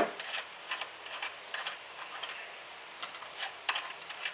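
Channel-lock pliers working the nut on a kitchen faucet's valve stem: a string of irregular light metal clicks and ticks as the nut is turned loose.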